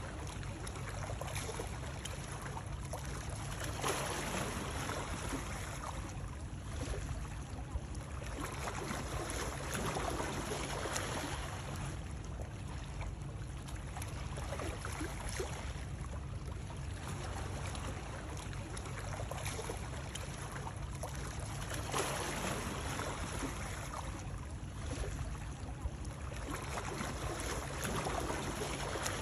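Steady water noise that swells and eases every few seconds, with a low rumble underneath.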